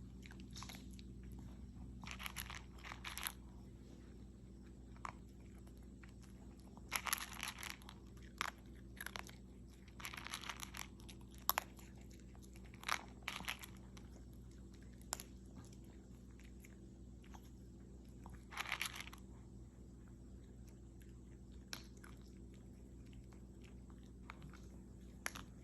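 A dog chewing and crunching food, in irregular bursts of loud crunches with quieter pauses between mouthfuls.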